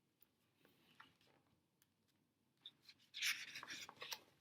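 Paper rustling for about a second, starting about three seconds in, as a picture book's page is handled or turned, with a few faint taps before it.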